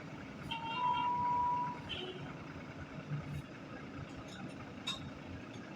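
Tractor-trailer trucks running with a steady low engine rumble. A brief high steady tone sounds for about a second, starting about half a second in.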